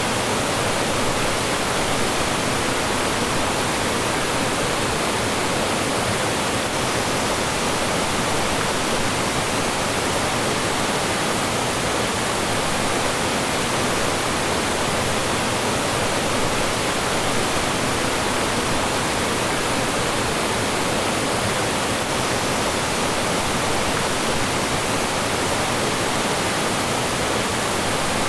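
Mountain stream flowing and falling over small drops: a steady, even rush of water.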